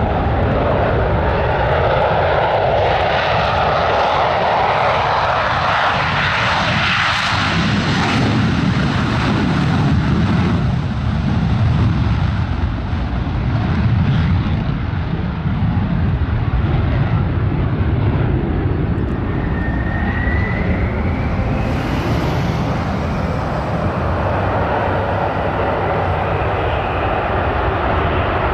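Loud, steady aircraft engine noise from an airshow flyby. Its tone sweeps about six to eight seconds in, and a short rising whistle comes about twenty seconds in.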